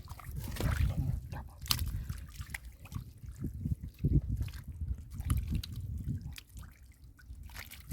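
Water and mud splashing, trickling and dripping in short irregular bursts as hands dig through a muddy pool.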